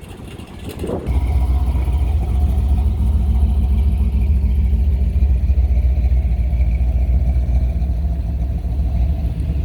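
A car engine running close by with a deep, steady rumble that starts about a second in and holds level.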